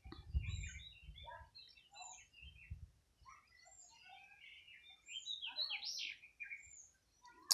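Birds chirping faintly: many short, quick chirps and whistles, scattered and overlapping.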